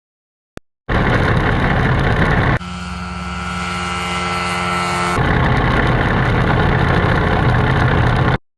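Small ultralight aircraft engine running, in three abruptly spliced pieces; in the middle piece the engine's steady drone grows louder.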